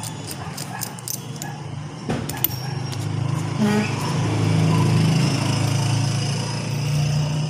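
Quick, evenly spaced ratchet clicks as a 19 mm socket loosens the pulley nut on a power steering pump. About two seconds in, a steady engine-like motor hum swells up and becomes the loudest sound.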